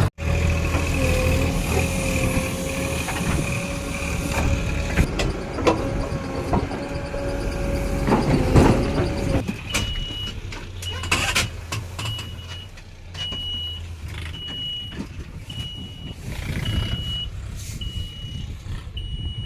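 Backhoe loader's diesel engine running under a steady whining tone, with clunks, the loudest about eight and a half seconds in. From about ten seconds in, a reversing alarm beeps about once a second.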